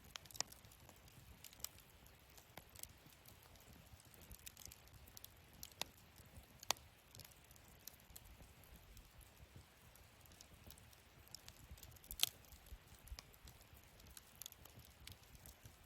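Wood fire in a fire stand crackling quietly: scattered sharp pops and snaps, the loudest about twelve seconds in.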